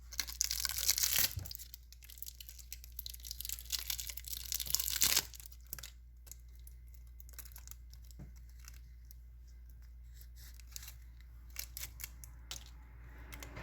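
Insulation being torn and peeled off the connection joints of a submersible motor's stator winding, in two rough tearing stretches over the first five seconds, followed by scattered light clicks.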